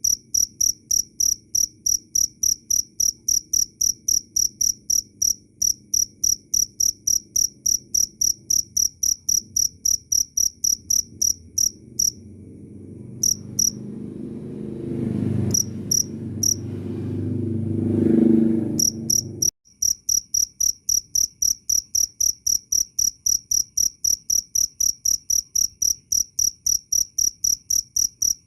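Field cricket (jangkrik) chirping in a steady, high-pitched rhythm of about three chirps a second. About halfway in the chirping stops while a low rumble swells, loudest just before it cuts off abruptly, and then the chirping starts again.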